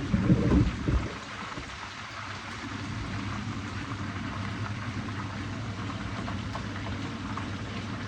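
Fish pan-frying in hot oil: a steady sizzle with fine crackles. A few low knocks in the first second, over a steady low hum.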